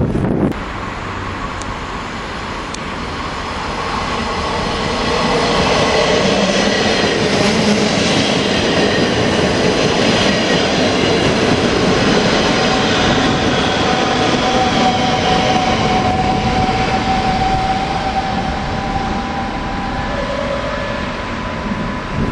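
NS DD-AR double-deck train moving along the platform: rolling wheel and rail noise that grows louder a few seconds in and eases near the end, with thin whines that slowly fall in pitch.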